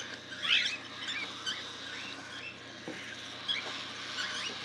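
Baby cockatiels giving high, squeaky begging chirps, short calls that overlap, the loudest cluster about half a second in. These are hand-fed chicks calling for food.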